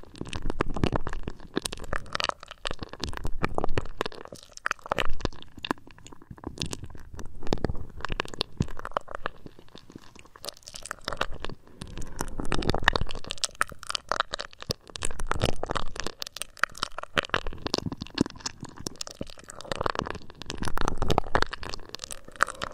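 Close-up ASMR sounds of fingers rubbing, scratching and tapping on a binaural microphone's ears: dense crackling and scratching that comes in swells every second or two.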